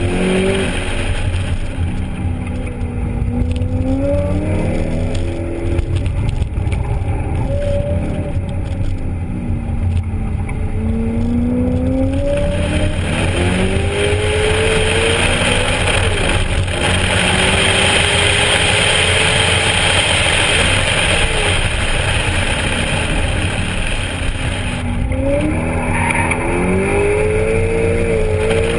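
BMW E92 M3's 4.0-litre V8, its axle-back mufflers removed, heard from inside the cabin revving up and falling back again and again as the car is driven hard through the course. A broad rushing noise rides over the engine through the middle stretch.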